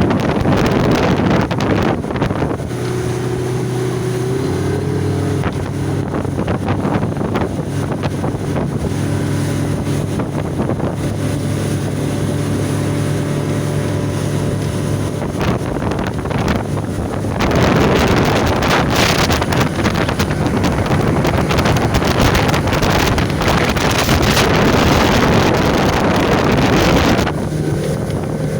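A boat's 115 outboard motor running steadily under way, its pitch rising slightly a few seconds in, with wind buffeting the microphone; for much of the second half the wind noise gets louder and drowns the engine, which comes through again near the end.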